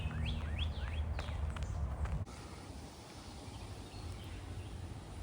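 A bird calling, a run of quick sweeping chirps in the first second and a half, over a low rumble that cuts off abruptly about two seconds in.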